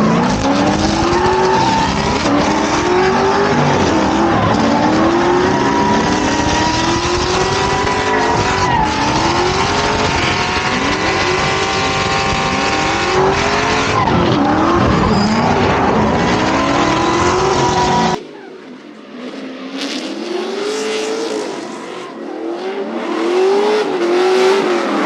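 Drift car engine revving up and falling back over and over, with tyres squealing as the car slides. About three-quarters of the way in the sound cuts abruptly to a thinner, quieter stretch of the same kind of revving.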